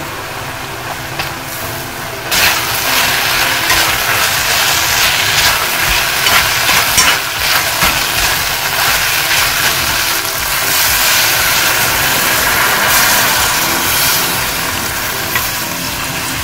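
Pork and green onions frying with chili powder in an oiled pot, sizzling as a spatula stirs and scrapes them; the sizzle jumps louder about two seconds in. The chili powder is being fried in the oil to draw out chili oil.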